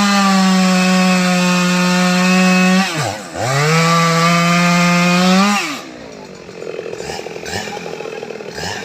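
STIHL MS 881 two-stroke chainsaw held at full throttle in two long bursts, with a brief drop in revs between them about three seconds in, then falling back to a low, quieter idle about six seconds in.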